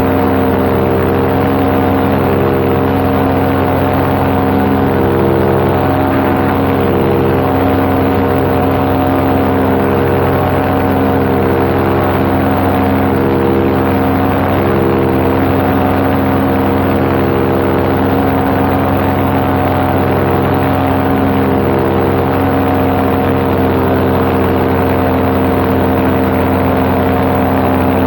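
Paramotor engine and propeller running steadily at an even throttle in flight, a constant engine tone with its overtones and no change in pitch.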